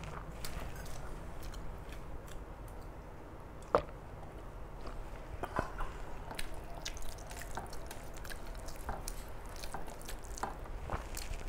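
Close wet chewing and mouth sounds of someone eating rice with fish curry and dal, with scattered small clicks and one sharp click about four seconds in.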